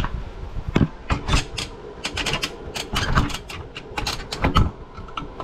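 Irregular clicking, rattling and knocking of objects being handled and bumped close to the microphone.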